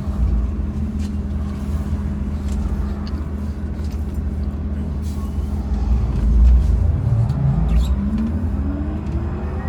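MAZ-203T70 trolleybus under way, heard from inside: a steady electrical hum over low road rumble. About eight seconds in, the electric traction drive's whine starts rising in pitch as the trolleybus picks up speed.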